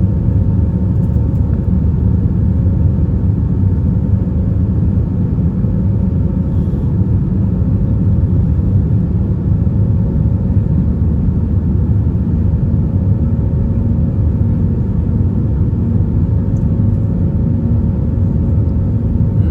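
Steady cabin rumble of an Airbus A320-232 climbing out, made by its IAE V2500 turbofan engines and the airflow over the fuselage. A faint, even two-note hum sits above the deep roar.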